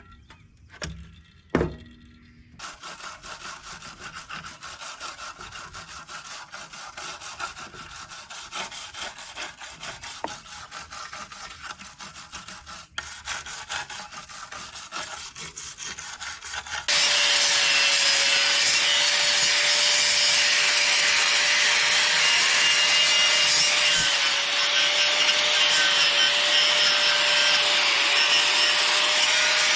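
Fast, steady scrubbing at a dirty backhoe air filter housing. A little past halfway it gives way to a much louder steady hiss, with a thin whine running through it.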